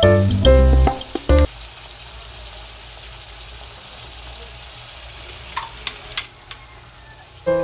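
Ground pork sizzling as it fries in a pan, an even hiss with a few light clicks near the end. Background music plays for the first second and a half and comes back at the very end.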